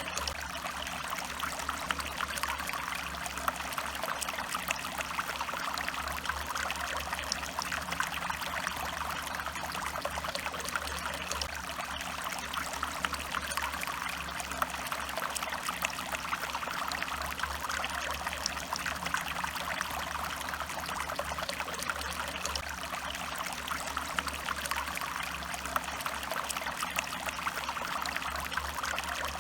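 Stream water running steadily over rocks, a continuous trickling and splashing.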